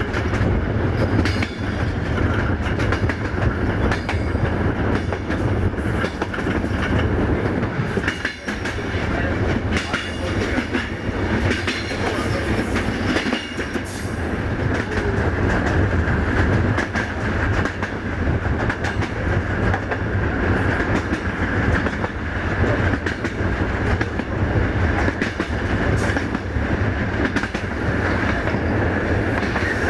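Passenger train coach running along the line, with a steady rumble of the wheels and running gear and repeated clickety-clack of the wheels over rail joints.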